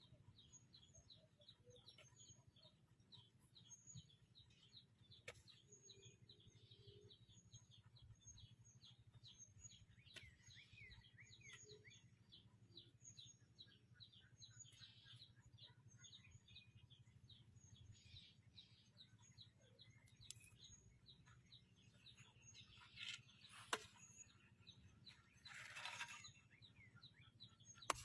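Near silence with faint, rapid small-bird chirping repeating throughout. A couple of brief knocks and a short rustling noise come near the end.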